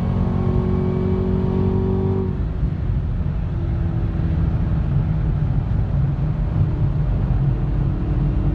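Chevrolet Camaro ZL1's V8 engine heard from inside the cabin during a fast track lap, running hard at a steady pitch, then about two seconds in the note drops to a lower rumble as the driver backs off.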